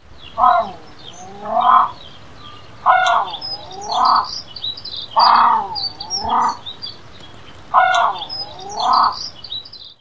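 Birds calling: one bird gives two-note calls, four pairs about two and a half seconds apart, over a continuous high chirping of smaller birds.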